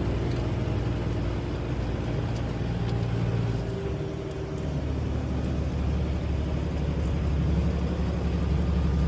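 Semi-truck's diesel engine running at highway speed with road noise, heard from inside the cab; the low engine note shifts a little under four seconds in.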